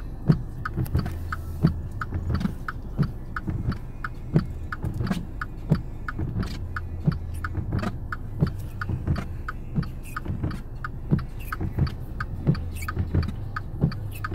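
Car on the move, heard from inside the cabin: a steady low engine and road rumble, with a light, regular clicking about three times a second.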